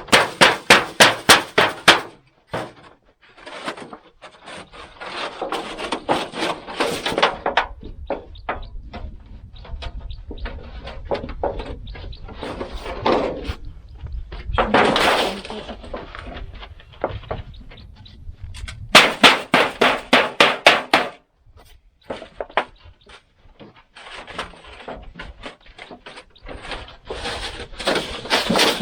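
Rapid runs of hammer blows, about four a second, twice: once at the start and again about two-thirds of the way in. Quieter scraping and handling noise comes between the runs.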